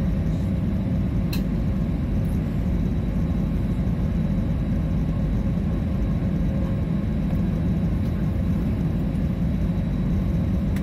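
Airliner cabin noise: a steady, even rumble of the engines and airflow heard from a passenger seat, with a single light click about a second in.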